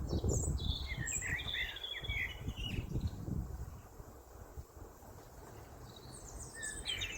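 Small birds chirping in quick, twittering phrases: a burst of calls in the first few seconds, quieter in the middle, and more chirps near the end. A rough low rumble sits underneath in the first half.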